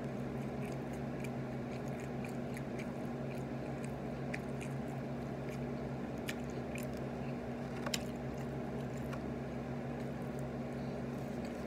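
A person chewing chicken nuggets, with soft wet mouth clicks and one sharper click about eight seconds in, over a steady low hum.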